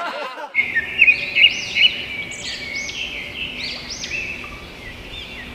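Birds chirping: a run of quick, high chirps that starts about half a second in, strongest in the first couple of seconds and fainter toward the end.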